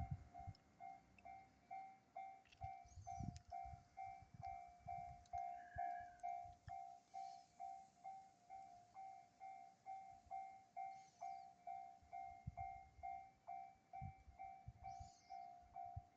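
Japanese level-crossing warning bell ringing steadily, one electronic ding repeated two to three times a second, with faint irregular low thuds from a slow freight train passing.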